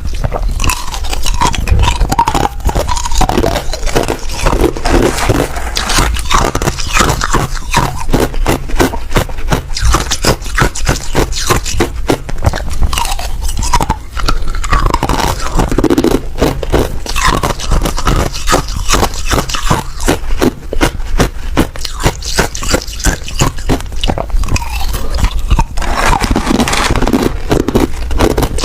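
Ice being bitten and chewed: a steady run of loud, sharp crunches and cracks.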